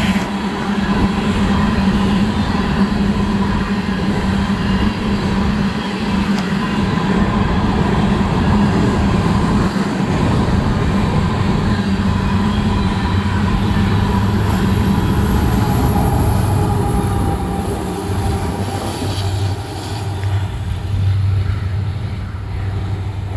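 Freight train cars rolling past close by: a steady, loud rumble and rattle of steel wheels on rail. A thin high wheel squeal joins about halfway through, and the noise eases slightly near the end as the last cars go by.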